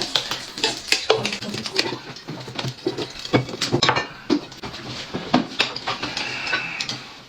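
Dishes, bowls and chopsticks clinking and clattering on a table: a quick, irregular run of short knocks and clinks.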